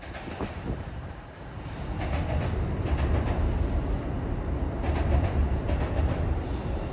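Amtrak passenger train rolling across a steel truss railway bridge: a low rumble with clusters of wheel clacks over the rail joints, getting louder about two seconds in.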